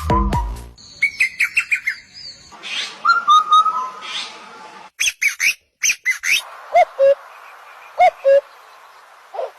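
Parrots chirping and whistling in quick runs of short, sliding calls, with a few single whistles later on. Background music cuts off just under a second in.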